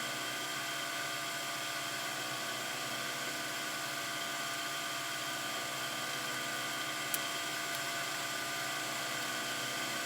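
A steady, unchanging mechanical whine made of several high tones over a hiss, with a single short click about seven seconds in.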